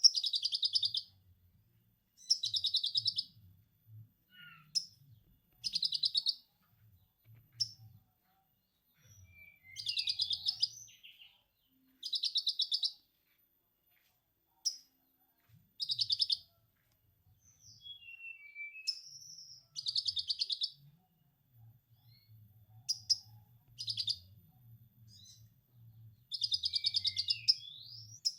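Recorded birdsong of a konin mixed with a lovebird's ngekek: bursts of rapid high chattering about a second long, repeated every few seconds, with short thin whistles and falling notes between them. Longer chatter runs come about ten seconds in and near the end.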